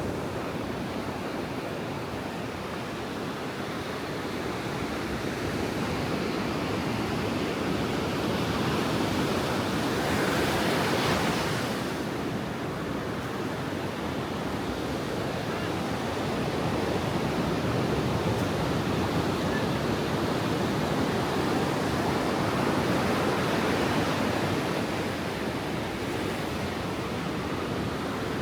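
Ocean surf breaking and washing up the beach: a continuous rushing noise that swells and ebbs, with one wave crashing louder and brighter about ten seconds in.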